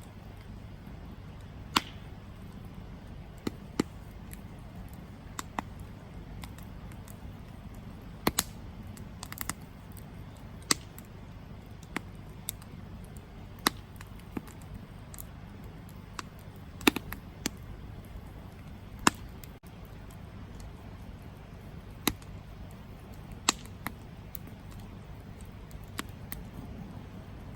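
Campfire burning: sharp crackles and pops from the burning wood at irregular intervals, a few of them loud, over a steady low rush of flame.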